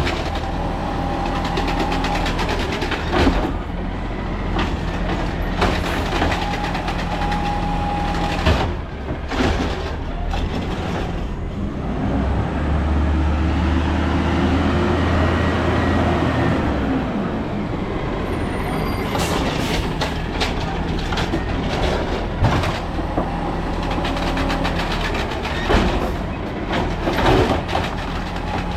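Peterbilt 320 garbage truck with an Amrep automated side-loader body working: the diesel engine runs throughout and revs up for several seconds around the middle. A hydraulic whine comes and goes, and sharp bangs and knocks sound repeatedly, mostly in the first third and the last third.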